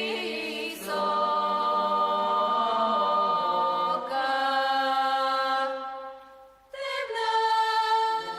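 Choir singing long held chords, one wordless chord after another, with a brief break about six and a half seconds in before the voices come back.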